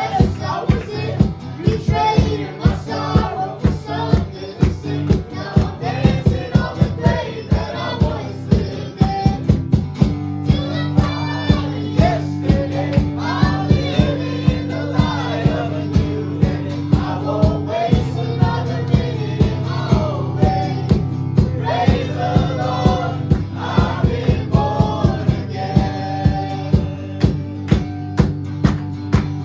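Worship music: a band with drums keeping a steady beat under held bass notes, and voices singing.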